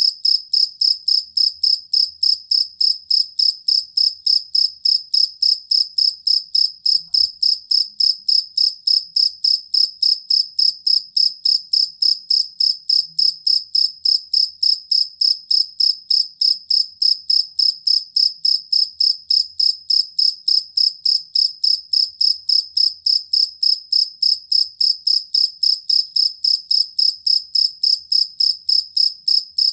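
Field cricket (jangkrik kalung) chirping steadily: a long, even run of short, high-pitched chirps, about three to four a second, with no change in pace.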